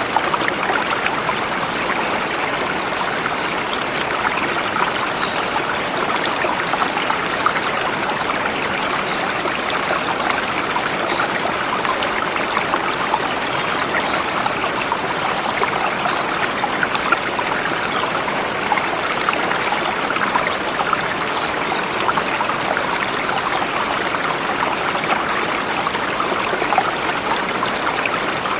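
Forest river flowing over rocks, a steady rushing and babbling of water.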